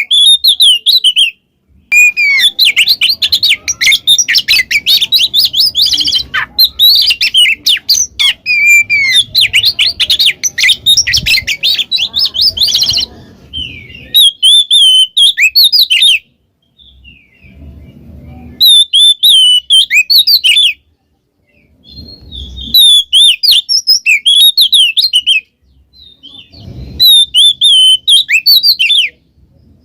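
Oriental magpie-robin (kacer) singing loud, rapid, varied phrases of whistles and chatter: a long unbroken run in the first half, then shorter bursts with pauses between them.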